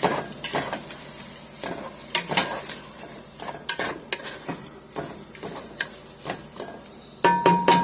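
A spoon stirring and scraping in a pan of melting butter, sugar and spices that sizzles on the stove, with irregular clinks against the pan. Near the end, a quick run of sharp, ringing knocks begins.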